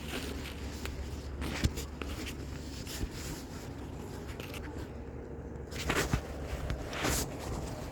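Scattered, irregular knocks and scuffs over a steady low rumble that fades about six seconds in.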